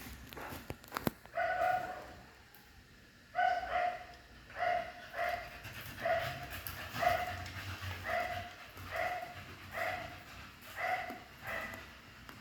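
A dog barking repeatedly in short, high-pitched barks, about one or two a second, after a few sharp clicks at the start.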